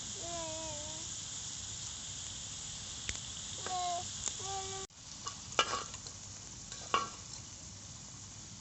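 Food sizzling in a frying pan, a steady hiss. About halfway it cuts off suddenly and returns fainter, with a couple of sharp clinks.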